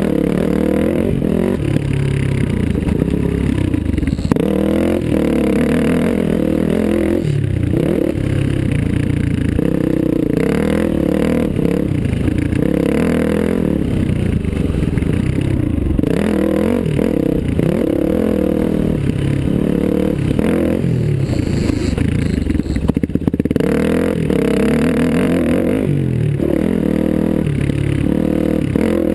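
Motocross dirt bike engine being ridden hard around a track, revving up and dropping back over and over as the rider accelerates, shifts and rolls off for corners and jumps.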